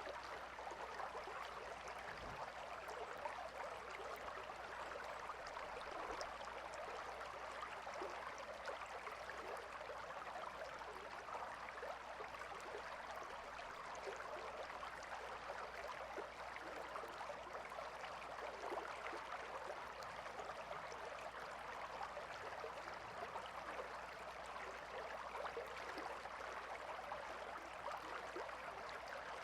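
Calm river flowing: a steady, unbroken rush of water with fine flickering splashes.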